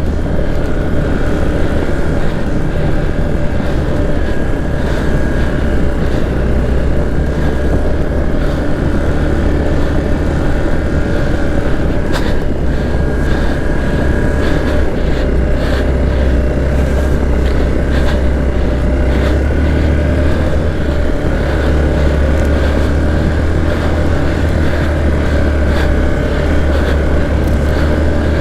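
Motor vehicle engine running steadily under way, a constant low drone with a steady higher whine over it.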